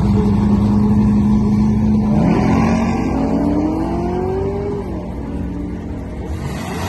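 Drag race car engine running loud at steady revs. About two seconds in, its note climbs steadily as the car accelerates, then drops away about five seconds in.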